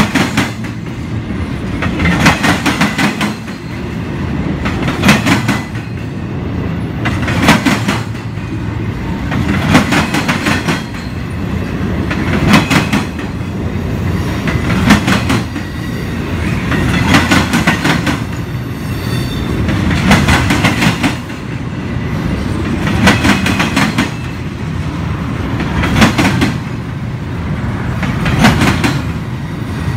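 Union Pacific double-stack container train rolling past, its freight-car wheels clacking over rail joints in clusters about every two and a half seconds over a steady rumble, with a faint wheel squeal just past halfway.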